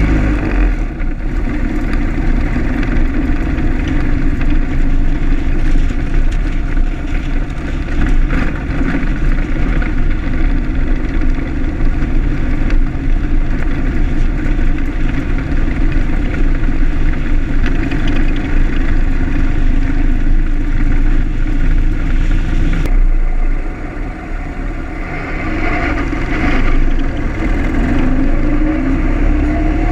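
Ford Model T's four-cylinder side-valve engine running as the car drives along, heard from on board with road noise. The sound drops for a couple of seconds about two-thirds of the way through, then builds again.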